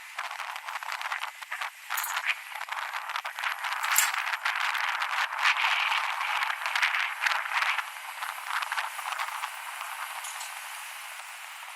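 Wind buffeting the microphone while riding an electric skateboard: a rough, crackling rattle of irregular clicks, strongest in the middle and easing near the end.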